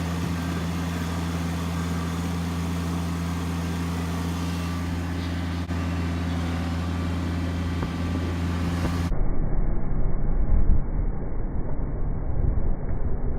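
A vehicle engine running steadily at a constant speed. About nine seconds in, the sound changes abruptly to a muffled, uneven low rumble.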